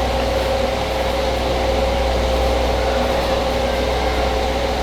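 A steady low mechanical hum with a faint steady higher tone running through it, unchanging and without strikes or clinks.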